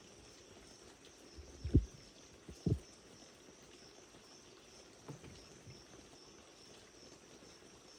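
Two dull, low thumps about a second apart, then a fainter one a couple of seconds later, over a faint steady high-pitched background hiss.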